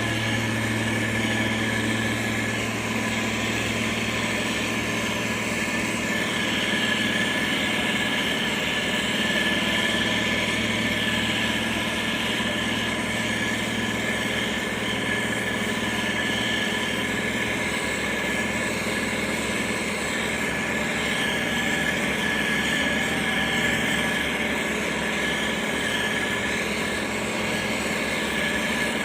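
Motor grader's diesel engine running steadily, with a constant high whine over the drone; the low hum eases a little about twelve seconds in.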